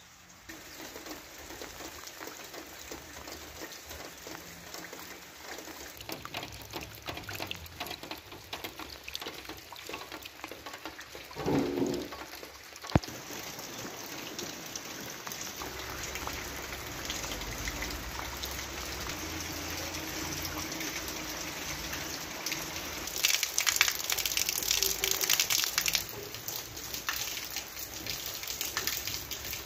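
Steady rain, with raindrops pattering on surfaces. It grows heavier and louder for a few seconds near the end. A short, louder pitched sound comes about twelve seconds in, followed by a single sharp click.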